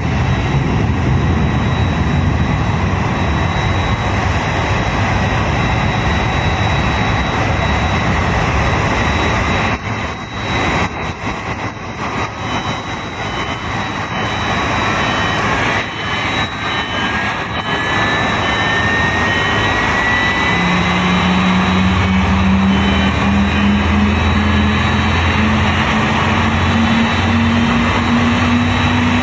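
Boeing 787-8 jet engine starting up over a steady jet noise. About two-thirds of the way through, a low hum and a high whine both begin rising slowly in pitch as the engine spools up.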